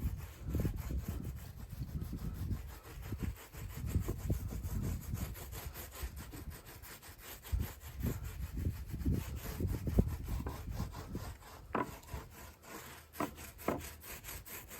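Repeated rubbing strokes against a wooden drum shell as fiberglass coating is worked on, with a few sharper scrapes near the end.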